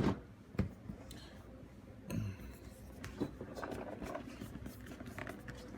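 Cardboard collector's box being handled and opened: a sharp tap about half a second in, a soft knock and click, then faint scraping and rustling of the packaging.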